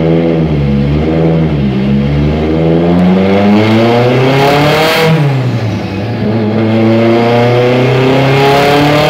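Turbocharged 2.2-litre four-cylinder of a Mitsubishi Lancer Evolution time-attack car, with a Garrett GTX3582 Gen2 turbo, running hard on a chassis dyno. The revs climb to a peak about five seconds in, fall sharply, then climb again toward the end.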